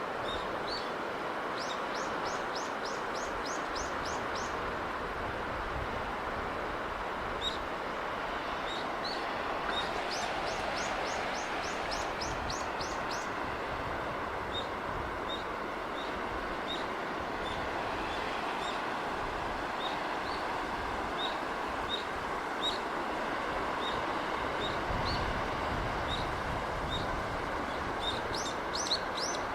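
Steady wash of sea breeze and sea noise, with small birds calling over it: quick trills of repeated high notes near the start, in the middle and at the end, and a string of single chirps in between.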